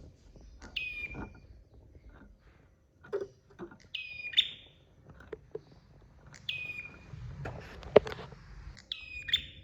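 Prenjak songbird calling: short, high notes that drop to a brief held tone, repeated every one to two seconds. Scattered sharp clicks accompany them, with a loud one about eight seconds in.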